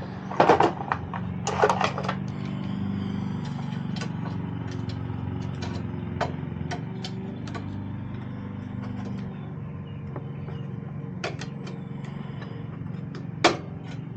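Small metal clicks and knocks of hands and tools working a retaining clip and linkage bar off a small engine's carburetor: a few loud clustered clicks at the start, scattered light ticks, and one sharp click near the end. A steady low hum runs underneath.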